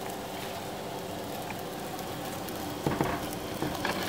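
Pot of soup broth boiling on the stove, a steady bubbling hiss. From about three seconds in come a few short knocks as the cut potatoes are dropped into the pot.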